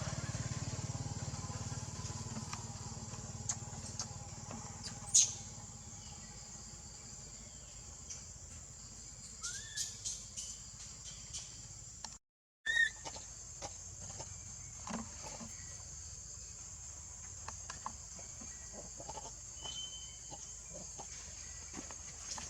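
Short animal chirps and scattered clicks over a steady high-pitched hiss, with one sharp knock about five seconds in and a brief break in the sound about halfway through.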